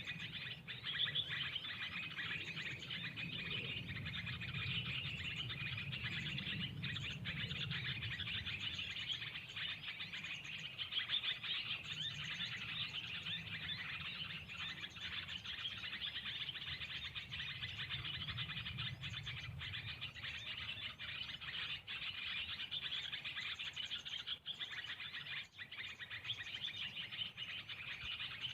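Birds chirping in a dense, unbroken chorus, over a low rumble that swells and fades.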